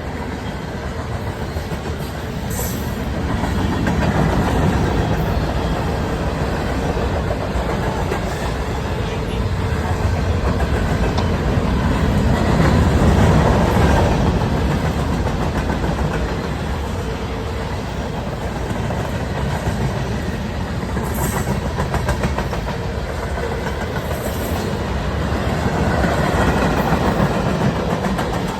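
Train rolling past at trackside: a steady rumble of the cars with wheels clicking over the rail joints, swelling louder and easing several times.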